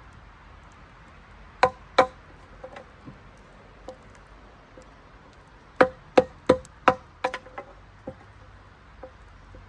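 Chopping wood: two crisp blows of a blade into wood, then, a few seconds later, a quicker run of about seven blows, each a sharp knock with a short ring.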